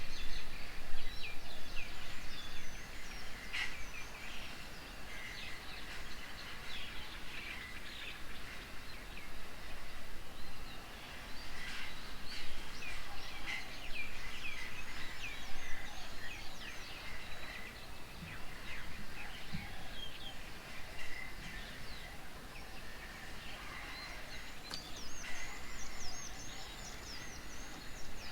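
Several birds chirping and calling at once, many short quick notes overlapping, busiest about halfway through, with a run of higher, thinner calls near the end.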